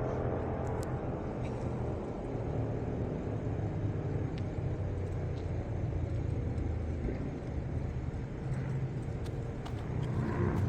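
Steady low rumble of motor vehicles in street ambience, with a few faint clicks, growing a little louder near the end.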